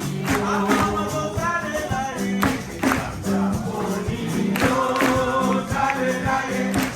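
Live African gospel song: Congolese percussion playing a steady beat under singing, with sustained low bass notes.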